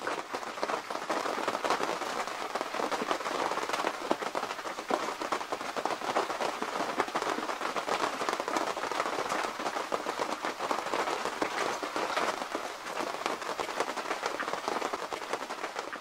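Steady rain pattering on the fabric of a military Arctic tent: a dense, even patter of countless small drop hits.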